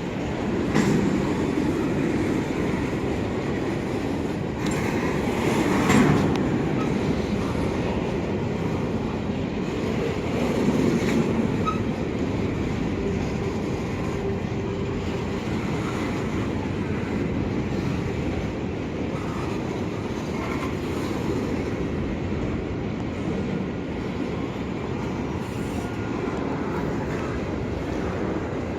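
Freight train cars, mostly grain cars, rolling past: a steady rumble of steel wheels on the rails, with louder clanks about 1, 6 and 11 seconds in.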